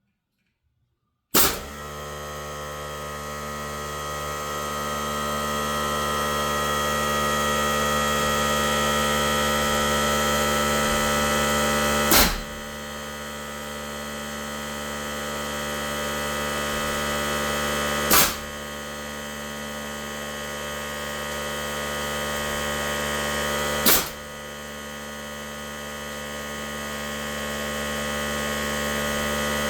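Steady motor sound of an air compressor running, with a framing nailer firing four sharp shots about six seconds apart as nails are toenailed into the top of the beams. The compressor starts together with the first shot, about a second in.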